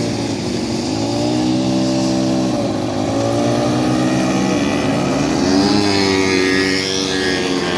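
Car engine revving hard, its pitch climbing and dropping several times as it is driven through stunts.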